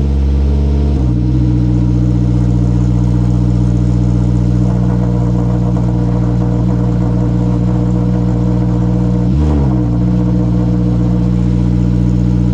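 Honda S2000's F20C inline-four, just started, idling through a straight-piped exhaust with no catalytic converter. It settles from a higher idle within the first second to a steady idle, with one short throttle blip about nine and a half seconds in.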